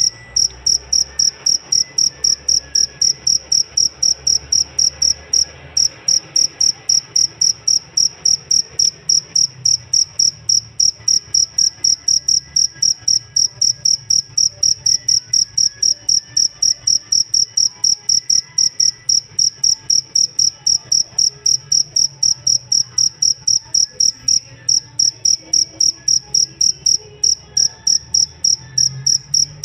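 Cricket (jangkrik) chirping in a steady, even rhythm of about three high-pitched chirps a second.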